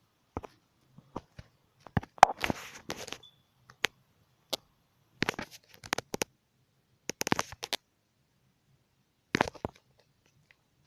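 Irregular sharp clicks and short crackling rustles in clusters, with dead silence between them.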